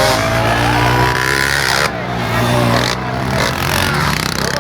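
Motorcycle engine being revved loudly, its pitch held and shifting, with sudden drops in revs about two and three seconds in.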